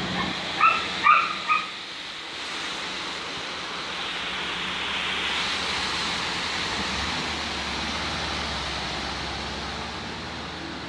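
Steady rain falling as an even hiss that swells a little in the middle. About a second in, a dog gives three short, high barks.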